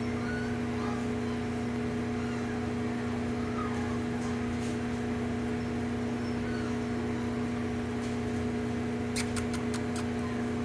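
A steady mechanical hum fills the room, with faint high squeaks from young dachshund puppies every so often. A few sharp clicks come near the end.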